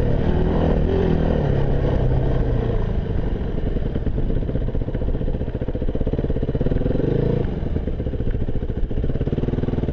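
Enduro motorcycle's engine running under way, its revs rising and falling, with a rev-up and drop about seven seconds in.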